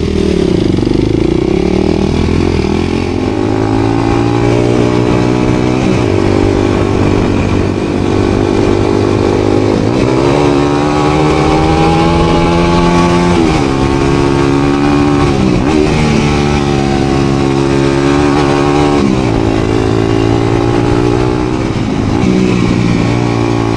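Dirt bike engine running hard on a trail ride. Its pitch climbs and drops back sharply several times as the throttle is worked and gears are changed.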